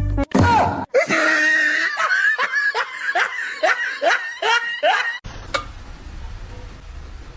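A person laughing hard in a rapid string of short, falling "ha" sounds, about two or three a second. The laughing cuts off suddenly about five seconds in, leaving a steady low background rumble.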